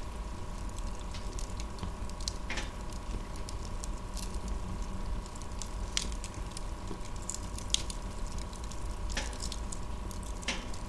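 Wood fire crackling: sharp pops every second or two over a steady low rumble.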